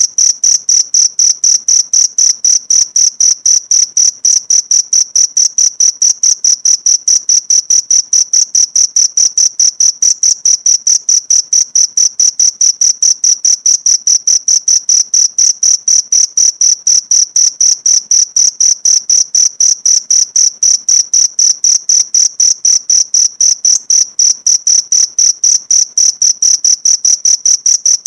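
Cricket chirping in a rapid, even, unbroken rhythm of high-pitched pulses, a looped recording used as a song tutor for a caged white-eye.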